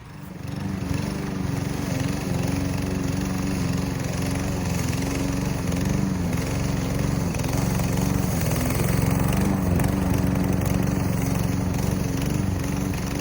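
Troy-Bilt TB110 push mower's small single-cylinder engine running steadily while mowing, its pitch dipping slightly now and then.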